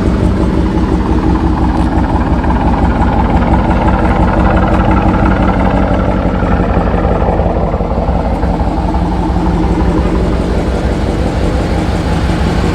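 Car engine running steadily with an even low hum, no revving.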